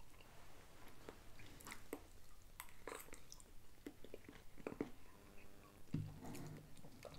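Faint chewing and mouth sounds of a man eating, with scattered light clicks of a fork on a plate. A short low hum comes about six seconds in.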